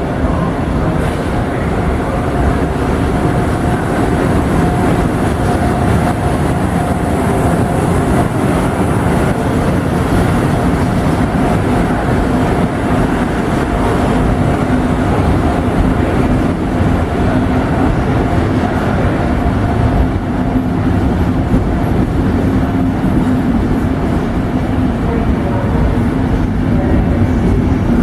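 A train running, loud and steady, with a constant hum under the rumble.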